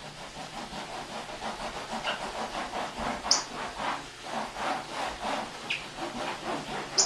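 Rhythmic scrubbing strokes from cleaning, about three a second, with a few short high chirps from an African grey parrot.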